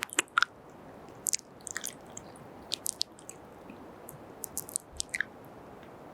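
Very close-miked kisses and lip smacks: a string of short, wet pops and smacks coming in small clusters.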